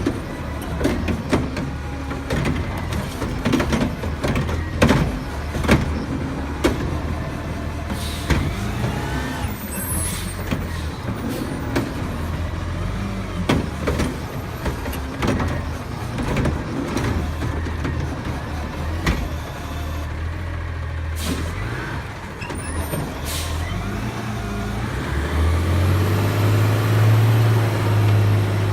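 Garbage truck engine running steadily, with repeated clanks and knocks from the collection work. Near the end the engine revs up and gets louder.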